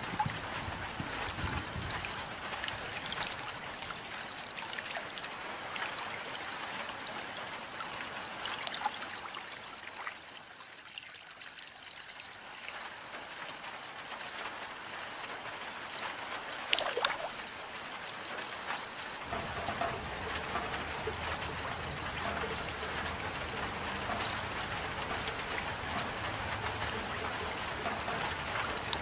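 Rain falling steadily, with trickling water and scattered sharp drop hits. It eases briefly a third of the way in, then a low rumble joins the rain about two-thirds through.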